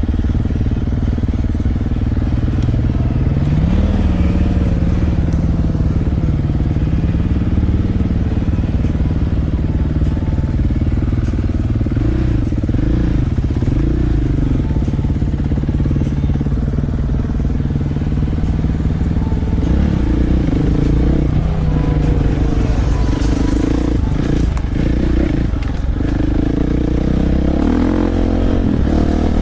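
Dirt bike engine running under way, its pitch rising and falling over and over as the throttle is worked on and off.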